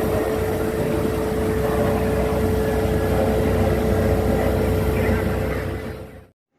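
Aircraft engines running at full takeoff power: a loud, steady noise with a steady hum through it. It fades and cuts off about six seconds in.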